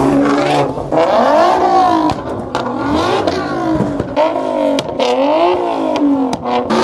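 Car engine revved hard and repeatedly: the revs climb and drop again about once a second, several times over, with a few abrupt cut-offs between pulls.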